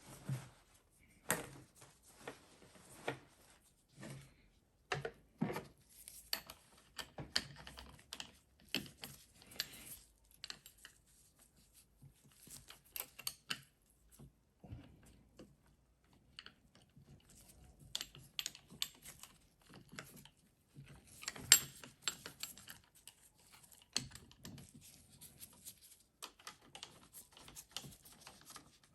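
Irregular clicks and light knocks of small metal starter parts being handled and fitted by hand during reassembly of a Denso starter motor. The loudest click comes a little past the middle.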